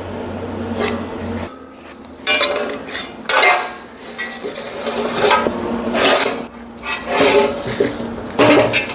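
Steel fabrication parts being handled and set in place on a steel frame, with irregular metal clanks and knocks that ring briefly. A low hum stops about a second and a half in.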